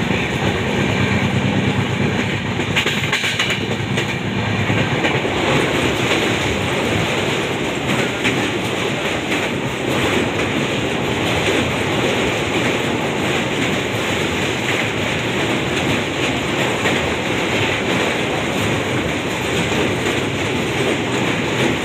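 Train running at speed, heard from on board: the steady rumble and clatter of wheels on the rails as the coach crosses a steel truss bridge.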